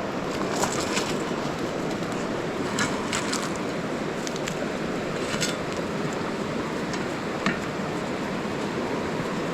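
Wood campfire crackling with scattered sharp pops over a steady hiss of falling rain.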